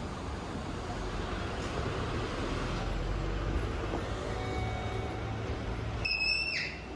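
Steady rumble and hiss of a Shinkansen train in motion. About six seconds in, a brief high-pitched tone lasts about half a second.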